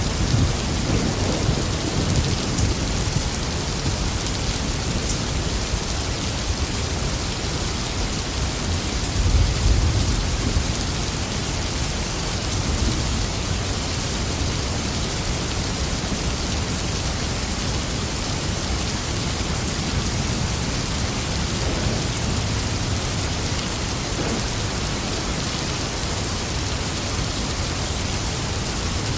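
Steady heavy rain falling, with a low roll of thunder near the start and again about nine seconds in.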